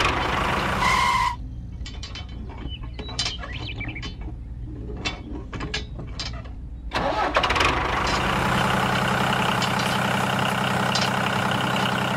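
Small engine running with mechanical clatter, broken off about a second in by a short beep. A few seconds of lighter clicking and rattling follow, then the engine noise comes back about seven seconds in.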